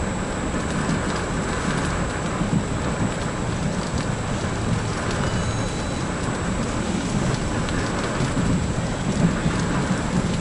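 Steady rumble and rush of a Vivalto double-deck regional train running, heard from inside the coach, with faint clicks and a thin steady high whine over it.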